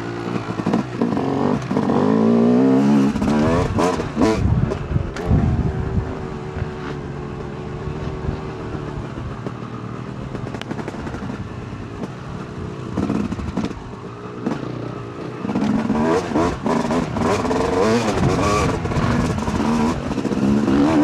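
2008 Yamaha YZ250 two-stroke dirt bike engine revving up and down through the gears, settling to a steadier, quieter note for several seconds in the middle before revving hard again.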